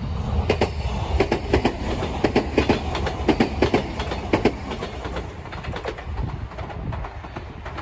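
Entetsu Railway 2000-series four-car electric train, two coupled two-car units, passing close by over a low rumble, its wheels clacking over the rail joints. The clacks come thick and loud for the first four seconds or so, then thin out.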